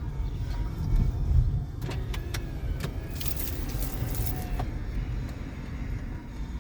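Road and engine noise inside a moving car: a steady low rumble with a few light clicks and rattles.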